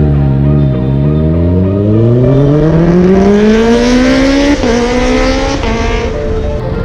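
Engine accelerating hard, its pitch climbing steadily for several seconds, dipping briefly about four and a half seconds in as it shifts up, then climbing again before easing off near the end.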